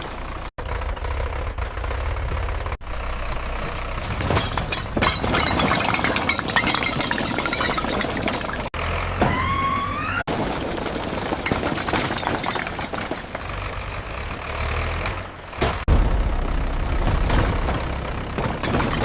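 Tractor engines running under noisy surroundings, in short clips broken by several abrupt cuts, with a rising tone about nine seconds in.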